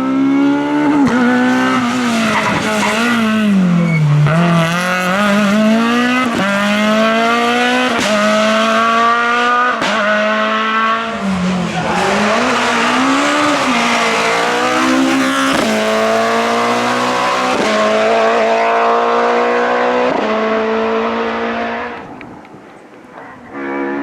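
Group F2000 rally car's naturally aspirated engine at full throttle, its pitch climbing through gear after gear and dropping back at each upshift, and falling away twice under braking and downshifts. Near the end it fades for about a second and a half before an engine climbs again.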